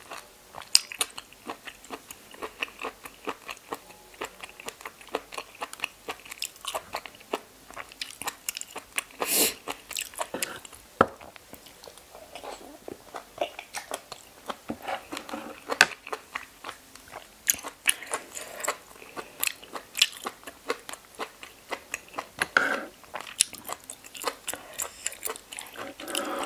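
A person chewing razor clam meat: a long run of irregular crunchy, clicking mouth sounds, with a louder crunch about nine seconds in.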